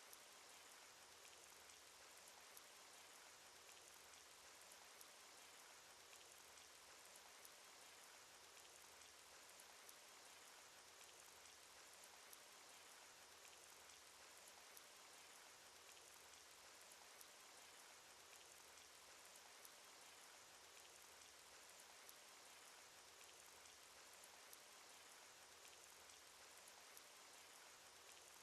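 Faint, steady rain sound effect: an even patter of rain with individual drops ticking here and there.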